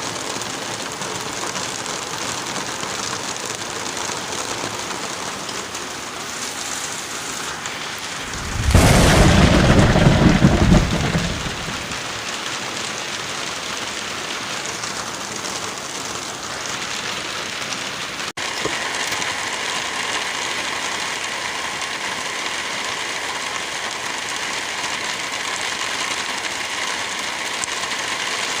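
Steady rain falling, with one loud clap of thunder about nine seconds in that rumbles for about three seconds and then dies away.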